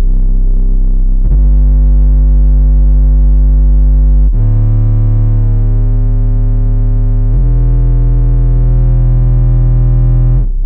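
Bass-heavy electronic music played loud through an 8-inch CT Sounds Meso car subwoofer. Long held bass notes change pitch about every three seconds.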